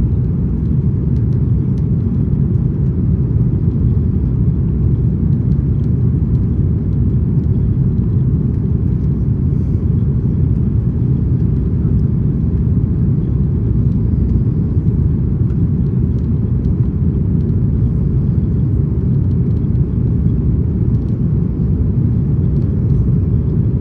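Steady low rumble of an Airbus A330-200 heard from inside the passenger cabin: engine and airflow noise, even and unchanging throughout.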